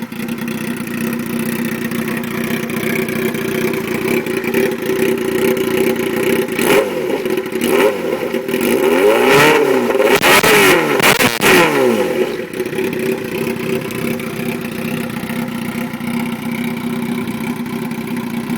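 2008 Yamaha R6S inline-four motorcycle engine idling through an unbaffled, essentially straight-pipe M4 exhaust. Midway, a string of quick throttle blips sends the revs up and down several times before it settles back to a steady idle.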